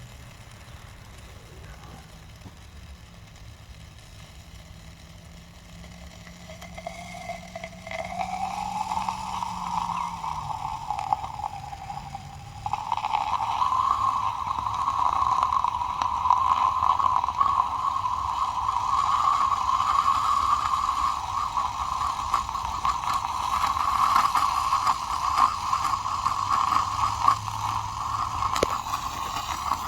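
A gummy candy burning violently in molten oxidizer in a test tube, the 'screaming gummy bear' reaction: a whistling scream with a hiss that starts about seven seconds in, rises in pitch, then gets much louder and holds steady to the end.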